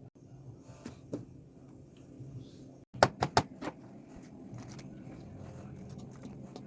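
Kitchen clatter during food preparation: a quick run of four sharp knocks and clicks about three seconds in, with a few lighter taps before and after, over a low steady hum.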